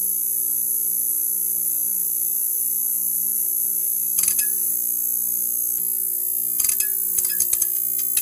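Motel neon sign buzzing: a steady electrical hum under a high whine, with a brief crackle about four seconds in and a quick run of crackles near the end.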